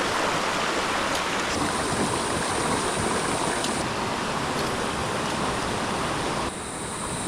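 Creek water running over rocks: a steady, even rush of flowing water, dipping slightly in level about six and a half seconds in.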